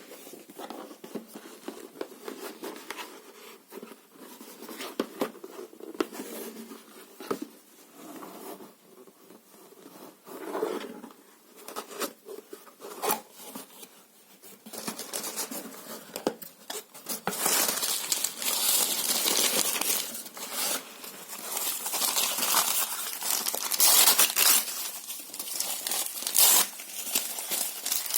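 Paper and cardboard crumpling and tearing in irregular rustles. It is softer for the first half, then louder and sharper tearing takes over from about halfway on.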